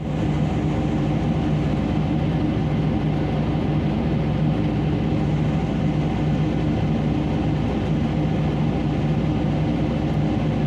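Heavy diesel engine running steadily, a constant low hum with no change in pitch.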